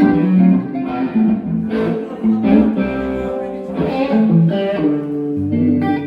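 Electric guitar played through an amplifier, a melodic line of picked notes and held notes. A deeper low note joins about five seconds in.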